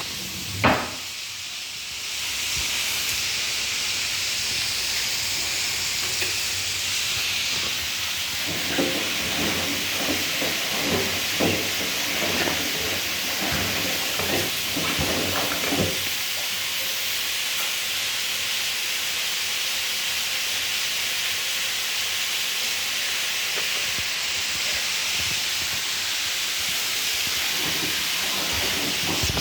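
Whirlpool washing machine running with a steady rushing hiss that grows louder about two seconds in. A sharp knock comes near the start, and a run of irregular clicks and knocks follows between about nine and sixteen seconds.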